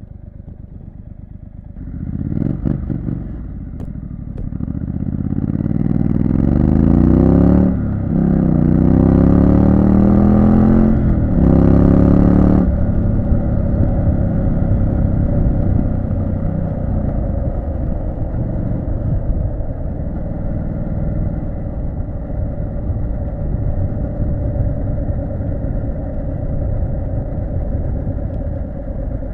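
Triumph Street Scrambler 900's parallel-twin engine accelerating hard through the gears. The revs climb, dip at a shift about eight seconds in, climb again through another shift around eleven seconds, and drop as the throttle closes near thirteen seconds. It then settles into steady running.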